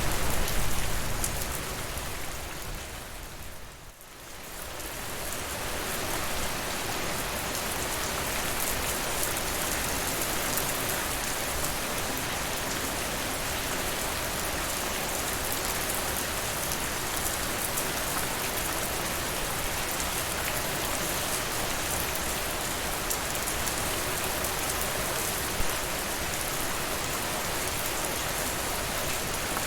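Steady rain. It fades almost away about four seconds in, then swells back over the next few seconds and holds steady.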